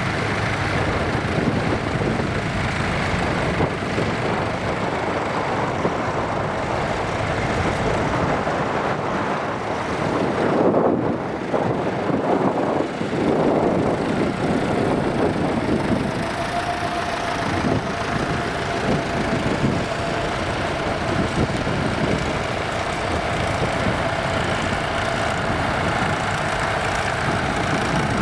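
Nuffield tractor engines running as the tractors drive slowly around in a parade, with a louder surge about ten to fourteen seconds in. A thin steady tone joins the engine noise about sixteen seconds in.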